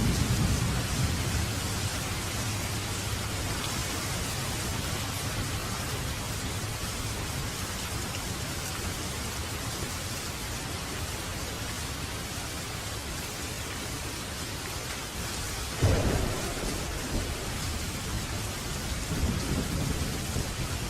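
Thunderstorm: steady rain with rolling thunder, a low rumble at the start, then a sudden sharp thunderclap about three quarters of the way through that rumbles on, and a further rumble near the end.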